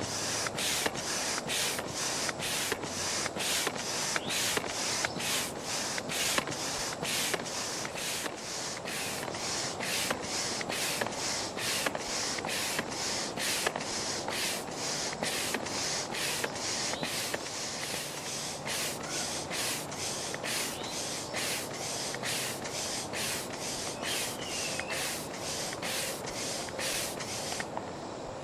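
Foot pump being worked steadily, a rush of air with each stroke at about one and a half strokes a second, inflating an inflatable raft's floor chamber; the pumping stops near the end.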